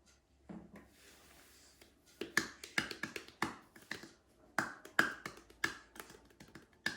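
A rapid, irregular series of sharp clicks, about two to three a second, starting about two seconds in over a faint low hum.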